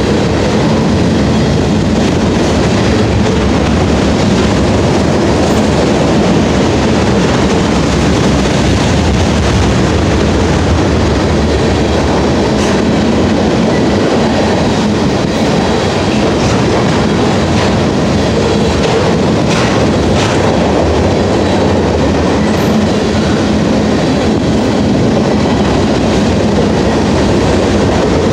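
Freight train of loaded flatcars rolling past close by: a loud, steady rumble of steel wheels on rail, with a few sharper clicks from the wheels over the track.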